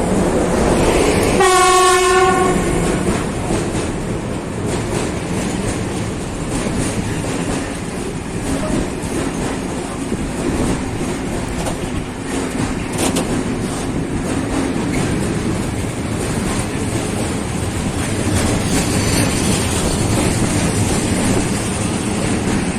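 A train passing, with one short horn blast about a second and a half in, followed by steady rolling noise and the clatter of wheels over rail joints.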